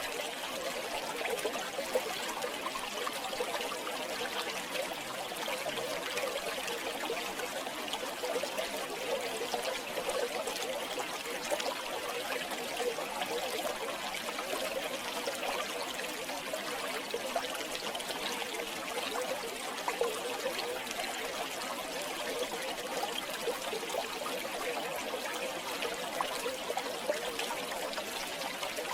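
River water flowing and trickling steadily, an even babbling rush with no change.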